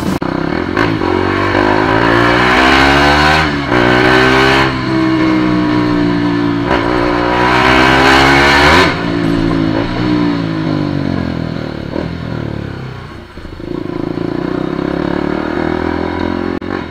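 KTM Duke 200's single-cylinder engine accelerating hard through the gears: the revs rise, drop briefly at a shift about three and a half seconds in, then climb again to about nine seconds. The revs then fall away as the bike slows, and settle to a steady run near the end.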